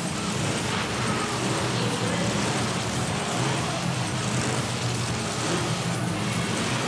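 Monster truck engine running, a steady low drone under a dense wash of noise.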